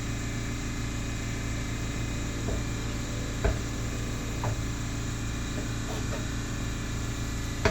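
A few scattered short knocks and rubs of the exhaust muffler and pipe being worked into place under the car, over a steady background hum.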